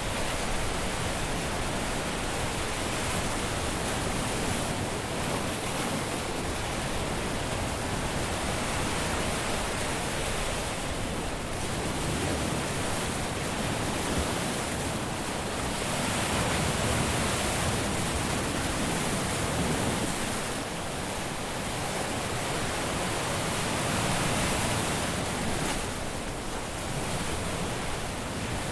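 Caribbean surf washing onto a beach, a continuous rush of breaking waves with gentle swells every few seconds.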